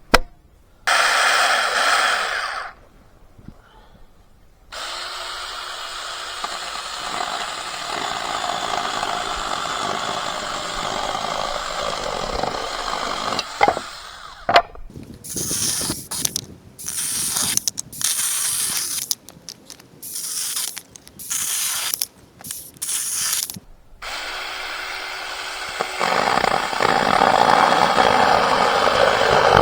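Small portable chainsaw cutting firewood, running in stretches: a long steady cut, then a string of short on-off bursts, then another steady cut near the end.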